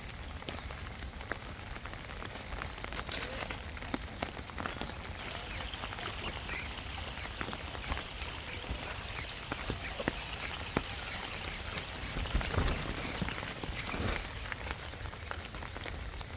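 Light rain falling steadily. From about five seconds in until near the end, a small bird calls a rapid series of short, high-pitched notes, about two to three a second.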